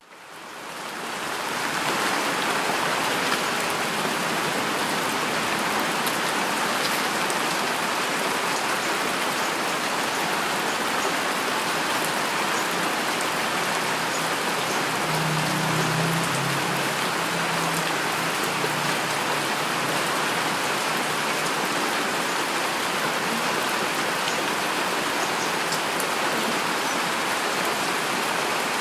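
Heavy, steady rainfall, a dense even patter that fades up from silence over the first two seconds. A brief low rumble rises under the rain about halfway through.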